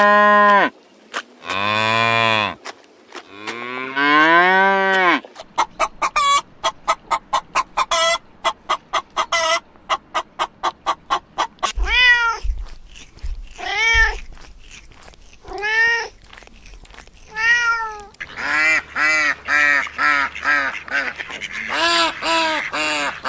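A run of different animal calls one after another. First come three long pitched calls. Then a fast string of short pulsed calls, then four arching calls about two seconds apart, and finally a rapid series of short honking calls.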